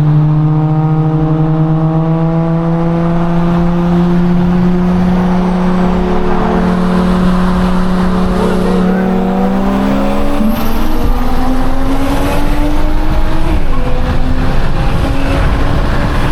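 BMW M240i xDrive's turbocharged B58 inline-six pulling under acceleration in a roll race, its note rising steadily in pitch. About ten seconds in the pitch steps, and it dips briefly near the end.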